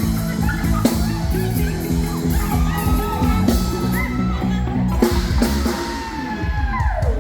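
Live band music with a drum kit, a steady bass line and a sliding melody line, over crowd noise; the melody falls steeply near the end.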